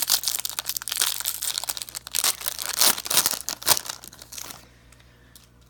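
A baseball card pack's wrapper being torn open and crinkled: a dense, busy crackle that stops a little over four and a half seconds in.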